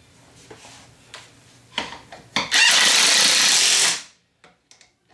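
A pneumatic impact wrench run in one burst of about a second and a half on the ATV's wheel hardware, after a few light clicks of handling the tool and parts.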